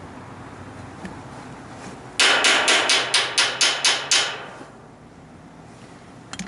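A part being rapped hard about nine times in quick succession, roughly four to five knocks a second, over a steady hiss. The rapping knocks packed snow out of the part.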